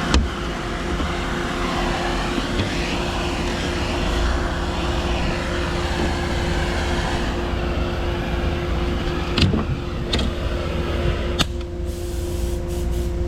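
A machine running steadily with a constant hum under a broad hiss. A few sharp metallic knocks come about nine to eleven seconds in, after which the hiss thins.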